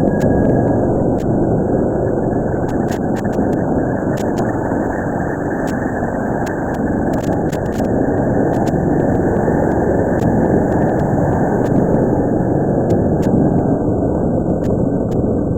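Cave ambience: a steady, loud rushing rumble with scattered sharp clicks over it.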